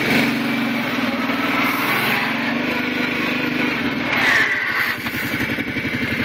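Kawasaki Prairie 700 ATV's V-twin engine running. About four to five seconds in the sound turns to a rapid rattly chatter and dips as it slows: the kind of grinding from the clutch when slowing down that the owner is asking about.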